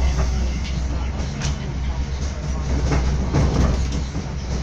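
Passenger train running, heard from inside the carriage: a steady low rumble with a few sharp clacks of the wheels over the rails.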